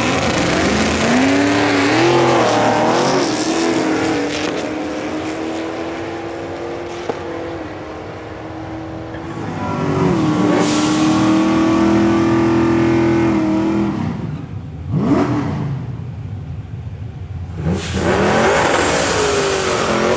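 Drag-racing cars running down the strip at full throttle. Twice an engine note climbs and then holds a high, steady pitch for several seconds, and near the end cars sweep quickly past.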